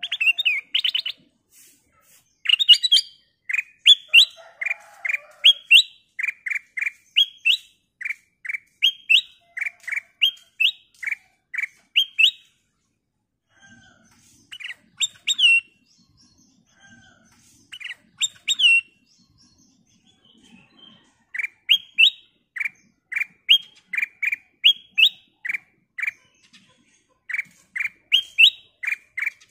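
Black-crested bulbul (kutilang emas) calling: runs of short, sharp chirps, about two a second, broken by brief pauses.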